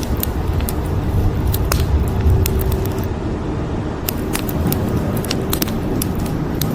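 Wood fire crackling, with frequent sharp irregular pops, over a continuous low rumble and a steady hiss of rain; the rumble swells briefly about two seconds in.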